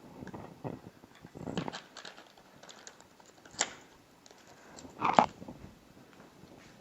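A few short spray-bottle squirts of metal-salt solution into a flame for a flame-colour test, the loudest about five seconds in.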